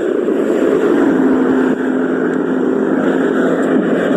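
Motor vehicle engine running on a steep uphill road, a steady hum that holds for about three seconds over constant rushing noise.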